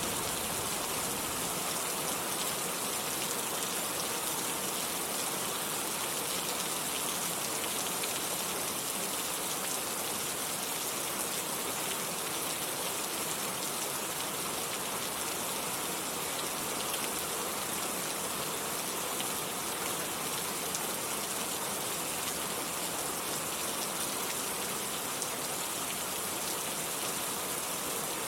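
Steady, even rain falling on surfaces, a dense hiss of many drops. The tail of a low thunder rumble fades out in the first second or so.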